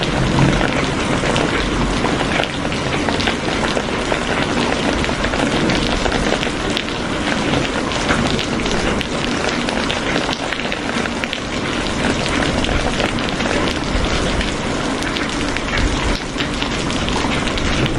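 Steady rain falling, a dense, even hiss thick with the ticks of individual drops striking a surface.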